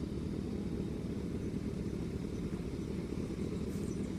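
Motorcycle engine running steadily: a low, unchanging rumble.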